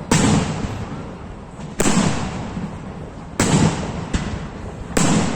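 Fireworks display shells bursting: four loud bangs about one and a half seconds apart, each trailing off in a long rolling echo.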